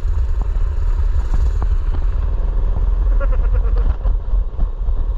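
Mini bike's small engine running as it is ridden, under a loud, steady low rumble, with scattered light clicks and rattles.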